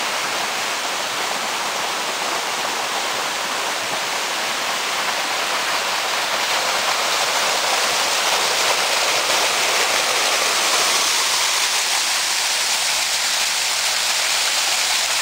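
Waterfall pouring: a steady, loud rush of falling water that grows slightly louder about halfway through.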